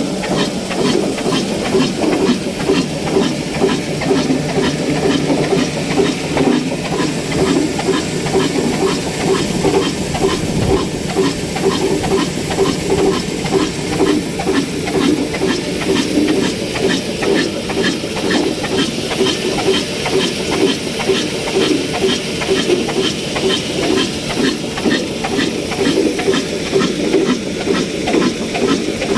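Old 22/24 HP, 300 RPM diesel oil engine running steadily under load, with a fast regular knocking beat over a low rumble and hiss, together with the mini flour mill it drives.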